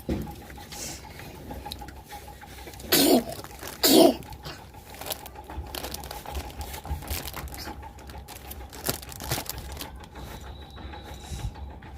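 Close-miked eating sounds: chewing with many small crunches and mouth clicks, broken by two loud short bursts about three and four seconds in. A faint steady hum lies underneath.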